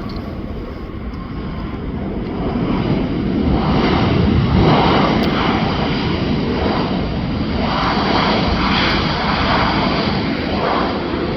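Boeing 737-800 jet passing low on its landing approach, the engine noise swelling to its loudest about four to five seconds in, then holding with slow surges and easing off near the end.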